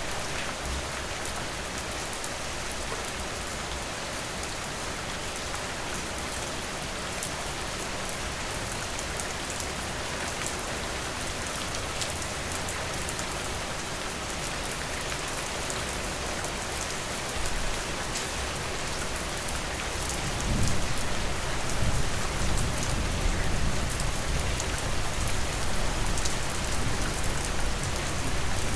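Steady rain falling on a porch, an even hiss with sharp individual drop ticks. About twenty seconds in, a low rumble comes in and stays, making the rain sound heavier.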